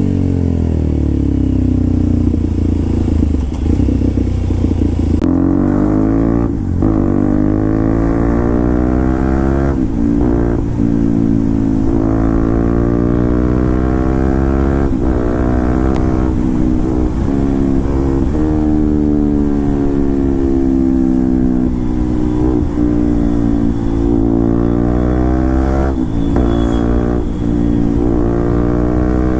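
Motorcycle engine through an SC Project aftermarket exhaust on the move: its pitch rises and falls again and again as the bike accelerates and backs off, with short breaks in the note several times, at gear changes or throttle closures.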